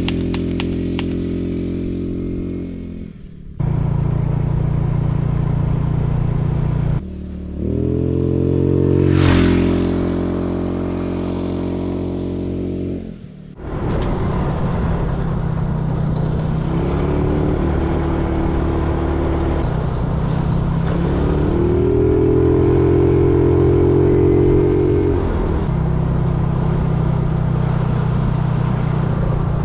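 Motorcycle engine running under way at a steady pitch that steps up and down a few times, with two brief dips in loudness about 3 and 13 seconds in.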